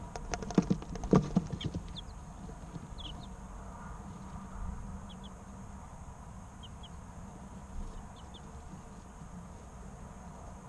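Three-week-old chicks giving occasional short, falling peeps, often in pairs, over a low steady hum. In the first two seconds there is a quick run of sharp taps and knocks.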